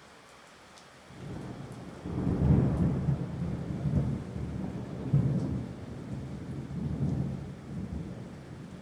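Rolling thunder with rain: a low rumble builds about a second in, then swells and falls away several times.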